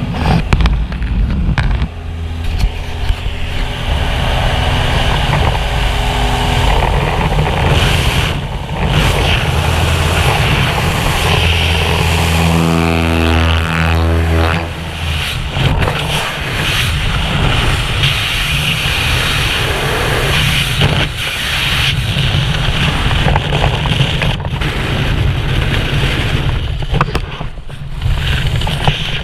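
Loud steady rush of wind on the microphone mixed with an aircraft engine's drone, the engine's pitch shifting about halfway through.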